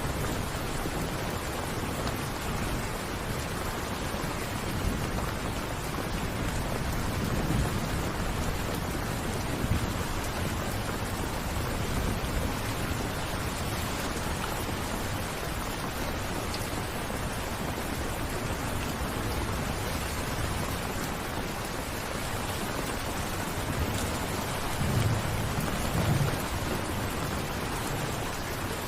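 Steady rain falling, with low rumbles of thunder swelling briefly about eight seconds in and again near the end.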